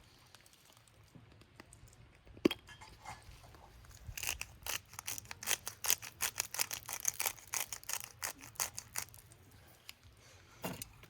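Irregular crackling and popping from steak cooking on an iron griddle over a wood fire: a single sharp pop, then a dense run of quick crackles for several seconds, and a few more near the end.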